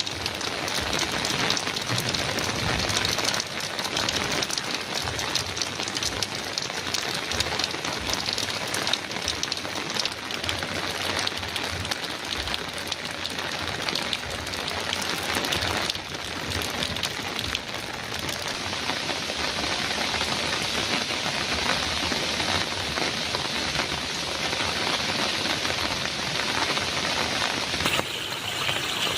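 Heavy rain drumming steadily on a metal roof, a dense hiss of countless drop impacts. Its tone shifts slightly near the end.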